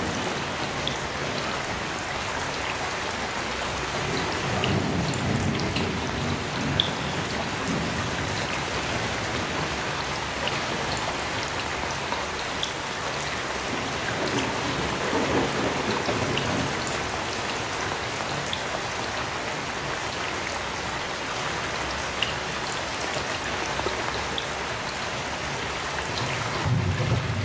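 Heavy rain falling steadily, with scattered individual drops ticking on a surface. Low rumbles of distant thunder swell up a few times, about five seconds in, around the middle and again near the end.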